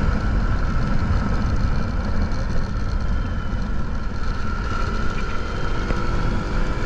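Motorcycle riding in traffic, heard through a GoPro's built-in microphone: steady engine and road noise under heavy wind rumble on the mic, with a faint rising whine about five seconds in.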